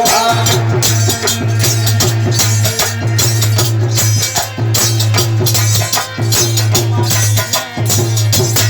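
Instrumental folk music: a fast rattling, shaker-like percussion and drum rhythm over a steady low drone, without singing.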